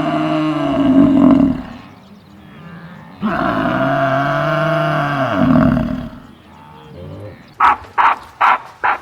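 An animal giving two long, low calls, each about two and a half seconds, with a short gap between them. Near the end comes a quick run of short, sharp calls, about three a second.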